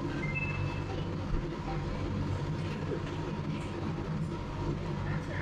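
Revolving-sushi restaurant ambience dominated by a steady low machine hum and rumble, typical of the sushi conveyor running. A short high two-note electronic tone sounds in the first second.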